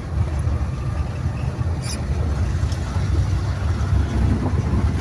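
Steady low rumble of a moving vehicle's engine and road noise, with a couple of brief clicks.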